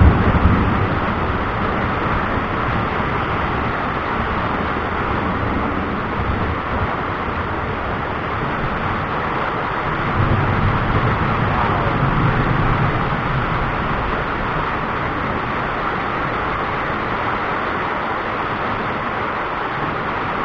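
Thunderstorm: a thunderclap's tail fades in the first moment, then a steady rushing noise runs on, with a low rumble rising about ten seconds in and fading a few seconds later.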